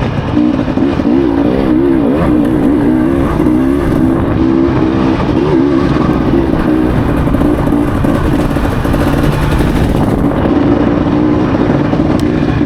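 Dirt bike engine running hard, its pitch wavering up and down as the throttle is opened and eased.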